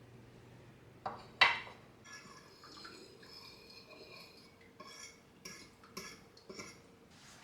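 Kitchenware being handled: a knock and then a loud metal clank about a second and a half in that rings on for a couple of seconds, followed by several lighter clinks.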